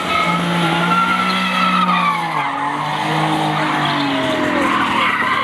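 Car engine revving hard with tyres squealing during wheelspin. The engine's pitch holds high, dips about halfway, then climbs again before falling away near the end.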